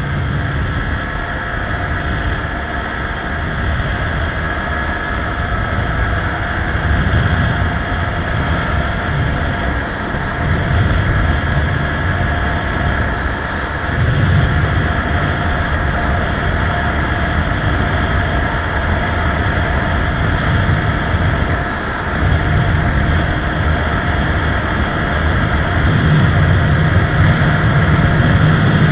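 TVS Apache 160 4V single-cylinder motorcycle engine running while the bike is ridden, its low throb swelling and easing in stretches of several seconds.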